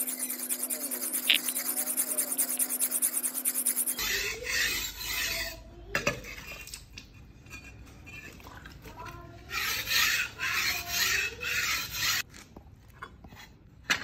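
A steel knife blade being sharpened by hand with rasping, scraping strokes: fast and even for the first few seconds, then slower separate strokes.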